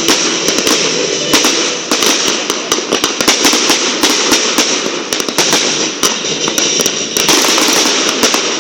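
Fireworks display: a dense run of crackling and popping, with many sharp cracks in quick, irregular succession over a continuous hissing crackle.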